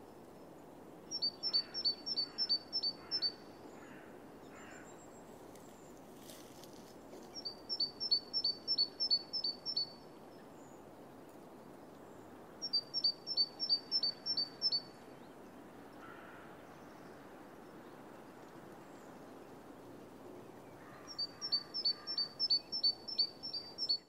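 A small bird singing four short phrases, each a quick run of eight to ten high, identical notes at about four a second, lasting around two seconds, with several seconds' pause between phrases. A steady outdoor hiss runs underneath.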